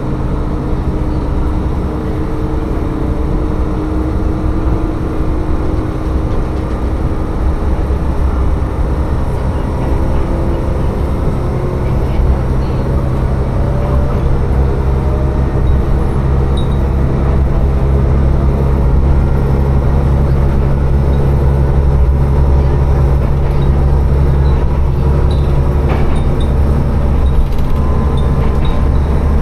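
Tsugaru Railway diesel railcar running along the line, with a steady engine note and rail rumble. About eleven seconds in, the engine grows louder and deeper, and it stays that way.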